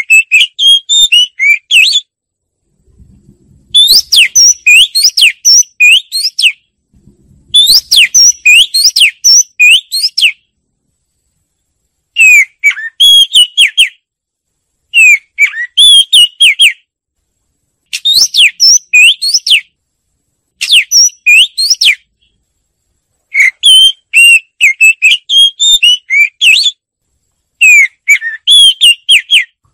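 Oriental magpie-robin singing: loud phrases of quick, varied whistled notes, each lasting about two seconds, repeated about nine times with short silent gaps between them.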